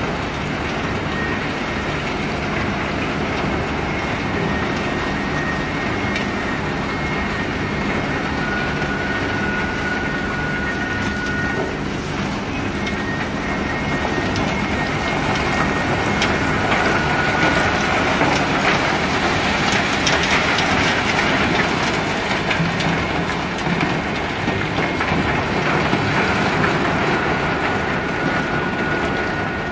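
Self-unloading ship discharging river pebbles: a steady dense rattling clatter of stones and running conveyor machinery, with thin high squeaks that come and go.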